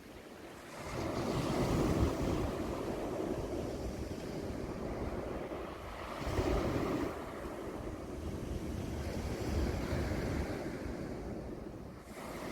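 Waves breaking on a pebble beach, twice: a surge about a second in and another about six seconds in. Each surge is followed by the hiss and rattle of pebbles rolling in the backwash.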